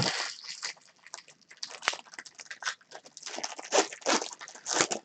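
Trading-card pack wrappers crinkling and rustling as packs are handled and opened, a quick, uneven run of short crackles.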